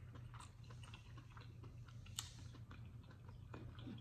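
Faint, close-miked chewing of a mouthful of chitterlings (pork intestines): soft wet mouth clicks and smacks, with one sharper click about two seconds in.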